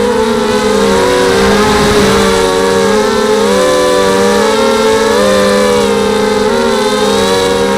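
250-size FPV racing quadcopter's brushless motors and propellers whining in flight, several close pitches weaving up and down against each other as the throttle changes.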